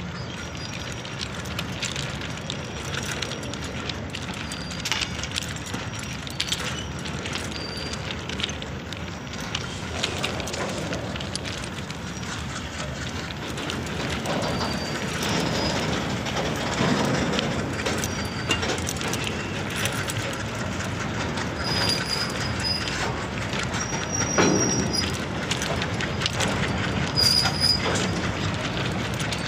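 Goods train of covered wagons rolling past, its wheels running on the rails with a continuous clatter of clicks and knocks and short high squeals now and then.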